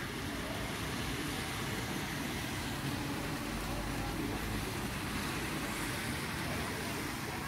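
Heavy rain falling steadily on a flooded street, a continuous even hiss of water, with the sound of a car moving through the floodwater.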